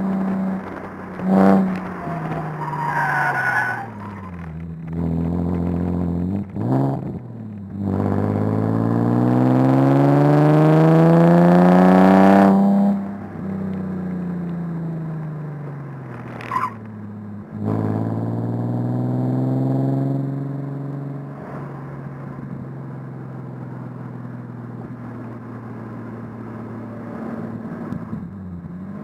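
Nissan 370Z Nismo's 3.7-litre V6 heard from inside the cabin. Its note falls as the car slows, climbs in one long rising pull from about eight to twelve seconds in, then drops away and settles into a steady low drone as the car rolls slowly. A few brief sharp sounds break in, around three and sixteen seconds in.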